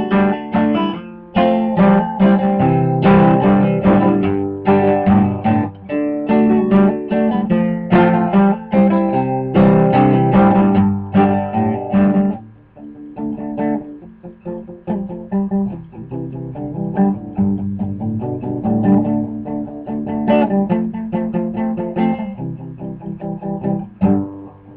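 Guitar strummed in a steady rhythm of chords, an instrumental break between sung verses; the playing turns noticeably softer about halfway through.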